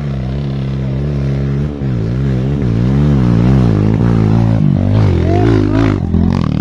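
Off-road motorcycle engine revving, its pitch rising and falling about twice a second as the throttle is worked on and off.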